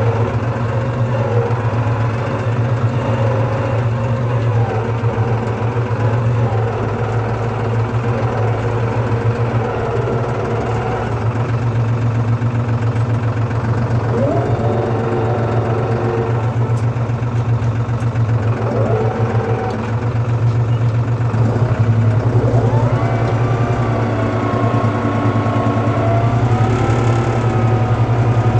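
Tractor diesel engine running steadily while pulling a four-furrow plough; its revs climb several times, staying higher and a little louder for the last few seconds.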